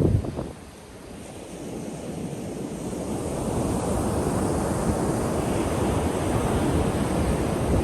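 Ocean surf breaking and washing on a beach: the rush of water dips about a second in, then builds steadily as the next wave comes in. Wind buffets the microphone with a low rumble at the start.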